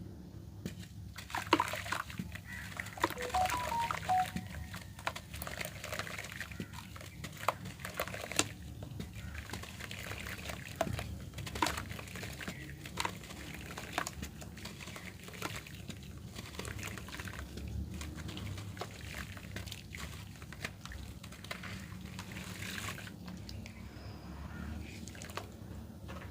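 Red dirt crumbling and being squeezed by hand, giving many small irregular crackles and crunches with a moist, sloshing quality.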